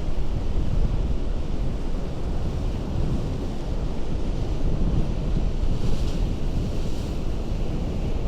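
Ocean surf against a rocky shore: a continuous rushing wash, heaviest in the low rumble, with a brighter hiss of a breaking wave about six seconds in.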